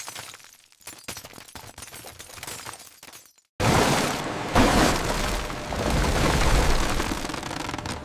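Cartoon sound effects: scattered small clatters and crackles, then a brief silence. About three and a half seconds in, a sudden loud rushing blast with a deep rumble starts and keeps going.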